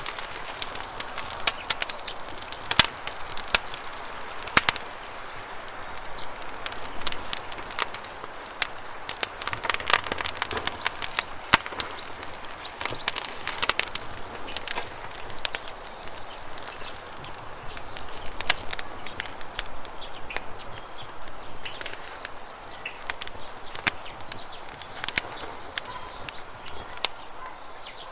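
Campfire crackling with frequent sharp, irregular pops over the steady rush of flowing river water. A few faint bird chirps come in during the latter part.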